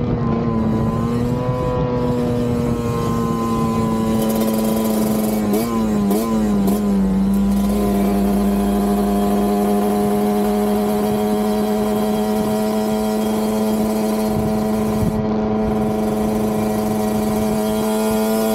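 Ported, PE28-carburetted single-cylinder two-stroke engine of a Kawasaki Ninja RR 150 running at high revs at speed, a steady high-pitched note. The pitch wavers briefly about six seconds in, then holds and creeps slowly higher.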